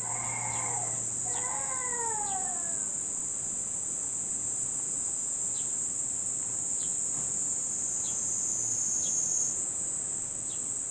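Cicadas singing in a steady, high-pitched drone that swells a little near the end. A baby cries with a couple of falling wails in the first few seconds.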